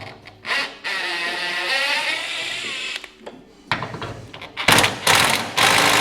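Power tool undoing a bolt: its motor spins with a pitch that rises and falls for a couple of seconds, then runs in louder, rattling bursts through the second half.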